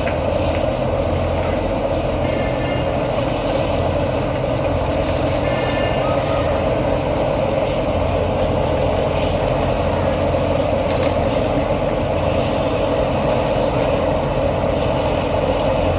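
Road milling machine running loud and steady as it grinds up old asphalt pavement and its conveyor loads the millings into a dump truck.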